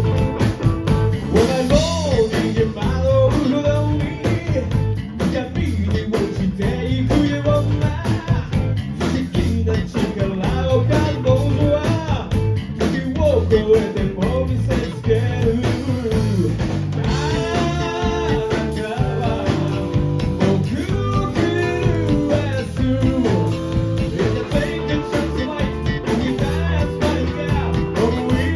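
Live rock band playing: electric guitar, bass and drums with a singer's voice over them.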